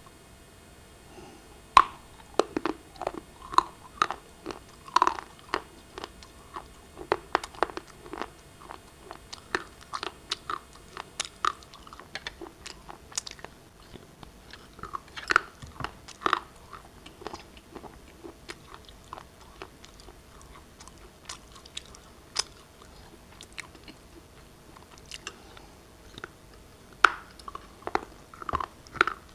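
A person biting and chewing pieces of black shale: sharp, brittle crunches and cracks at irregular intervals, coming in quick clusters of several a second, starting about two seconds in.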